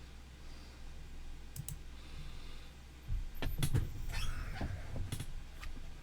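A couple of sharp clicks, then a cluster of clicks and dull knocks about three to five seconds in, over a steady low hum.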